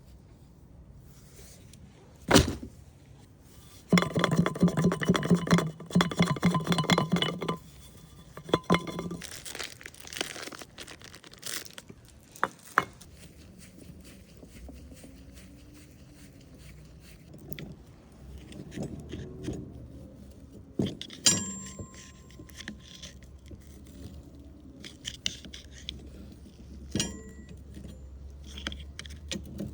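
Metal tools and parts being handled during car repair work: scattered knocks, scrapes and ringing clinks. About four seconds in, a few seconds of rapid rattling, like a ratchet or small power tool.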